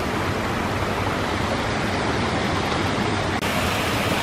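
Steady rushing of a small woodland waterfall on a stream swollen by heavy rain, with a brief dropout about three and a half seconds in.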